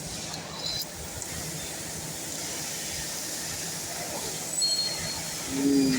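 Steady background hiss and rumble, with no saw cut; a brief low hum near the end.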